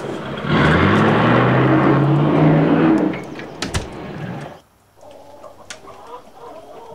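A car engine accelerating, its pitch rising steadily, then fading away. After a short drop-out about two-thirds of the way in, only quiet background with a few clicks remains.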